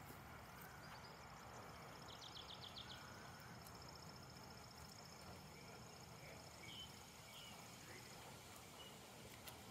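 Quiet outdoor ambience with faint, distant bird calls: a short rapid trill about two seconds in, a long thin high trill running through most of the stretch, and a few scattered chirps.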